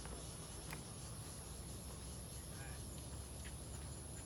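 Insects chirping in a continuous, steady high-pitched trill over a low steady rumble, with a few faint ticks.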